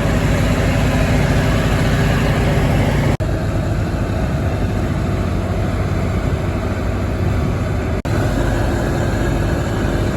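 Tractor diesel engine running steadily, breaking off for an instant twice, about three and eight seconds in, with a slightly different engine note after each break.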